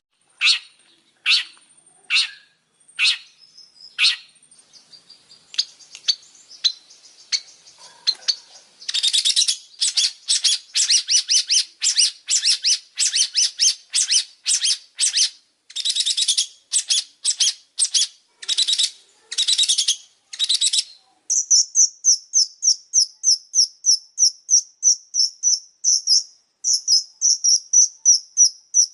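Long-tailed shrike calling: harsh, scratchy notes, sparse at first, then a fast run of rasping notes from about nine seconds in. Near twenty-one seconds it changes to a rapid, higher-pitched chatter of about five notes a second.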